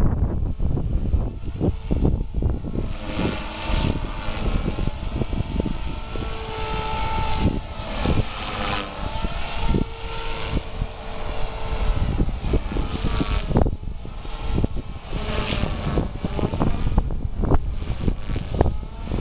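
Electric 450-size RC helicopter (Walkera V450) flying 3D manoeuvres: its motor and rotor whine rises and falls in pitch as it is thrown around, over heavy wind buffeting on the microphone.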